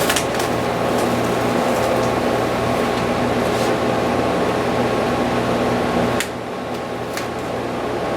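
Steady hum of a machine, like a fan or air-handling unit, running in a workshop, dropping somewhat in level about six seconds in. A few short ticks and crackles sound over it as the stencil application film is handled.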